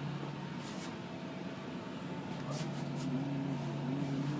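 A steady low machine hum, with a few faint ticks and knocks.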